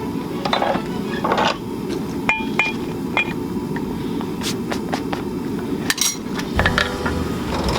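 Hammer blows on the shrapnel steel being forged into a flint striker: a handful of irregular strikes, a few of them ringing briefly, over a steady low noise.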